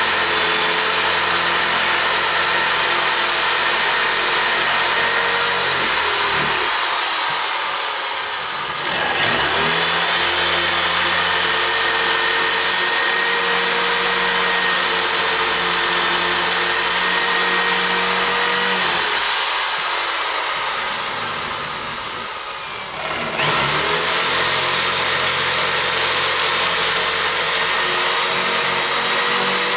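A power tool's motor running at high, steady speed. It eases off twice and spins back up about nine seconds in and again about 23 seconds in.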